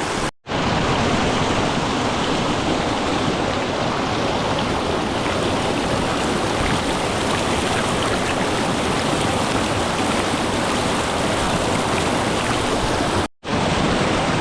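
Small waterfall pouring into a rocky pool: a steady rush of running water. The sound cuts out briefly twice, about half a second in and near the end.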